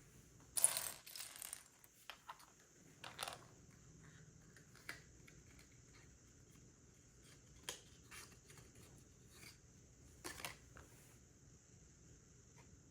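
Plastic Lego pieces being handled and pressed together: scattered clicks and short rattles, loudest just under a second in, with smaller ones a few seconds apart.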